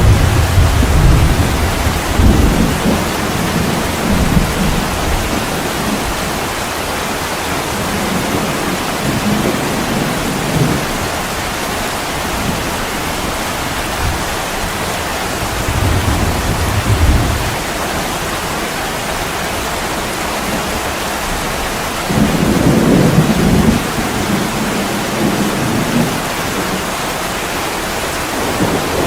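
Heavy rain pouring steadily on an attic window pane. Low rumbles swell up and fade four times: near the start, about a third of the way in, around the middle, and loudest about three quarters through.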